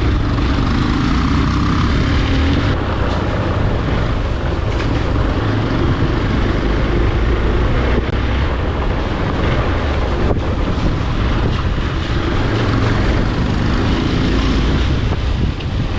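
Steady wind rumble on an action camera's microphone on a moving motorcycle, with the bike's engine running underneath.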